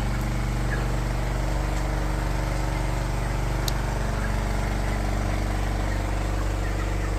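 Steady hum of an engine running at constant speed, unchanging throughout.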